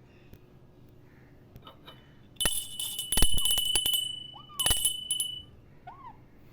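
A small metal bell struck with a few sharp knocks, ringing on steadily for about three seconds, with two short chirps over it.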